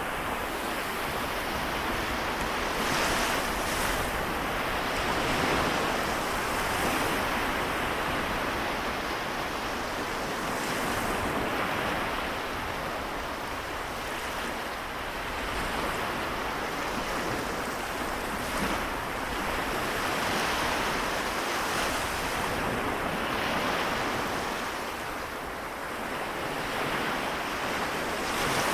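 Small waves of the Seto Inland Sea washing onto the shore, a continuous wash that swells and eases every few seconds as each wave breaks and draws back.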